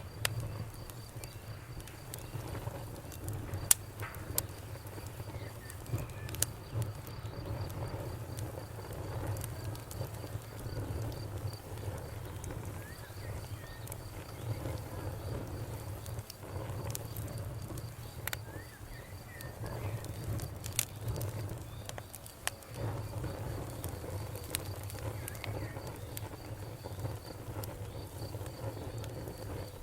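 Campfire burning with a steady low rumble and irregular sharp crackles and pops, the loudest about four seconds in. A cricket chirps steadily in the background.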